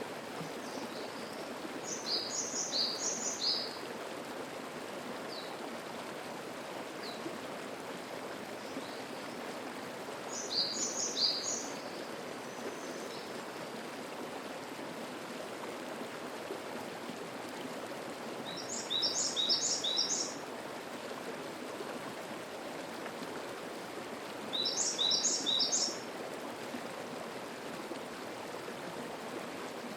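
A mountain stream flowing steadily over rocks. A songbird sings four short phrases of rapid high notes over it, about once every seven to eight seconds.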